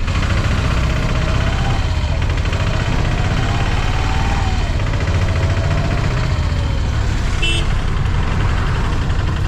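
A vehicle engine running with a steady low rumble, with a brief high beep near the end.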